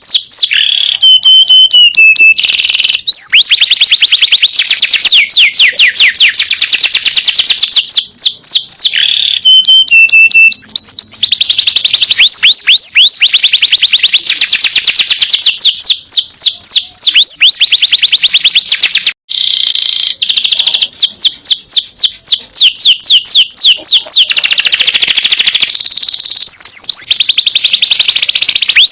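Domestic canary singing loudly in long, fast trills of repeated downward-sweeping whistled notes, with a brief pause about two-thirds of the way through.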